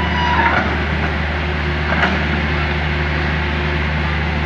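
Excavator diesel engine running steadily with a low hum, over the rush of fast-flowing river water, with a faint knock about two seconds in.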